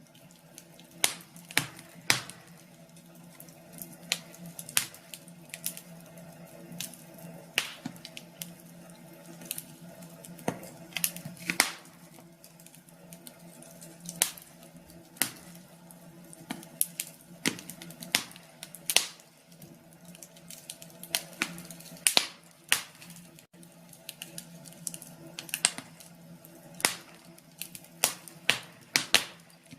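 Wood fire crackling: irregular sharp snaps and pops, several a second at uneven spacing, over a faint steady hum.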